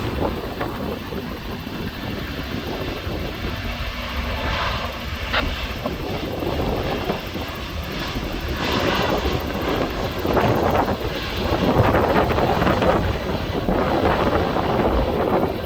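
Airbus A350-900's Rolls-Royce Trent XWB jet engines at take-off thrust, a loud, steady jet noise that grows louder in the second half.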